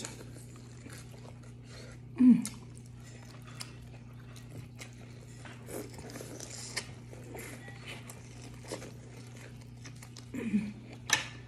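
Close-up eating sounds of a seafood boil: biting and chewing corn on the cob and sausage, with small wet clicks and smacks scattered throughout. A short low vocal sound about two seconds in is the loudest moment, and a steady low hum runs underneath.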